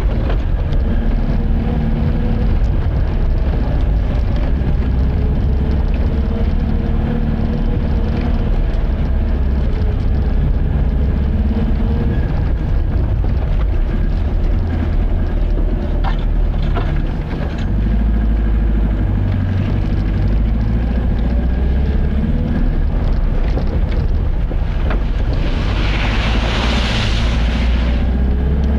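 Car driving, a steady low drone of engine and road noise, with a short rushing hiss near the end.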